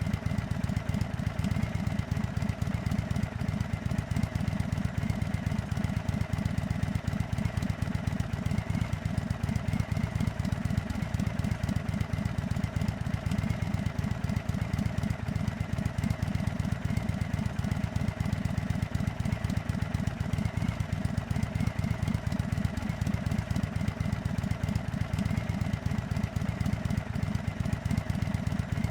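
2024 Indian Chief Dark Horse's air-cooled Thunderstroke 116 V-twin idling steadily.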